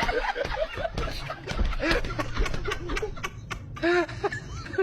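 People snickering and laughing in short, repeated bursts, with some clicks among them.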